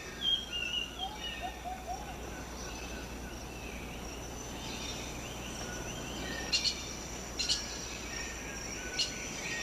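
Rainforest ambience: birds chirping and calling over a steady high insect drone, with a few sharp short calls near the end.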